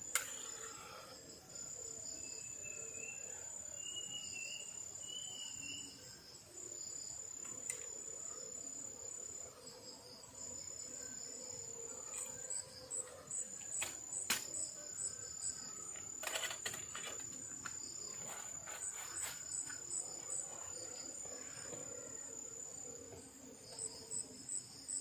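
Night insects chirring: a steady high-pitched trill that breaks off briefly now and then, with a pulsing call near the end. A few sharp clicks or knocks stand out, the loudest at the very start and about 14 seconds in.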